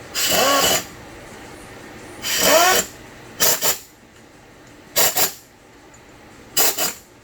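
A power tool run in five short bursts with its pitch rising and falling, the first two about half a second long and the last three shorter, stuttering pulls, over a steady garage hum.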